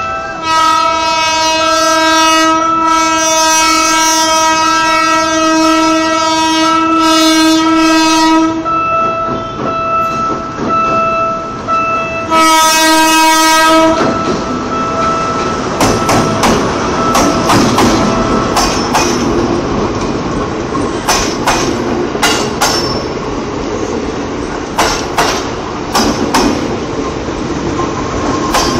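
A PNR diesel-electric locomotive, DEL 921, sounds its horn in one long blast of about eight seconds, then a shorter blast a few seconds later. It then rolls past with its coaches in a loud rumble, wheels clacking over the rail joints.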